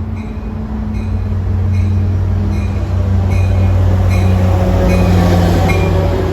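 Metra diesel commuter train at the station: the engine drones steadily, louder as the train comes closer. A bell rings about every three-quarters of a second over it.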